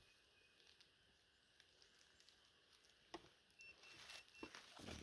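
Near silence: a few faint clicks and soft rustling, growing a little near the end, with a faint high tone that comes and goes briefly after the middle.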